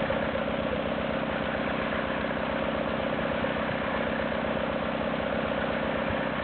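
Ariens GT17 garden tractor engine running steadily.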